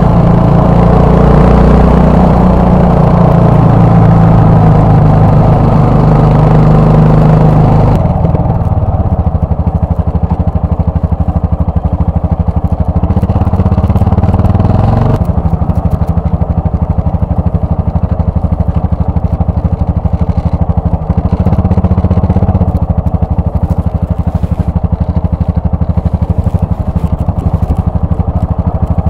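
Yamaha XT660R's single-cylinder engine running while riding, with wind and road noise over it at first. About eight seconds in the wind and road noise drops away and the engine settles to a lower, pulsing beat. Near halfway it rises in pitch briefly, then drops back.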